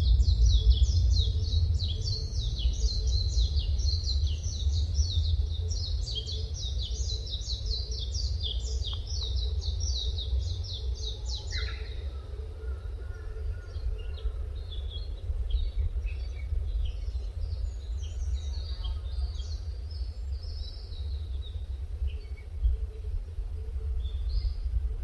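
Forest birds singing: a fast run of high, quickly repeated notes for roughly the first half, then scattered shorter calls, over a steady low rumble.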